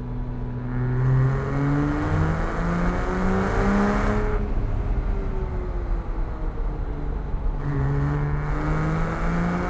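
Porsche Cayman S's flat-six engine pulling through a curvy road: revs climb for about four seconds, fall away as the throttle eases for about three seconds, then climb again near the end.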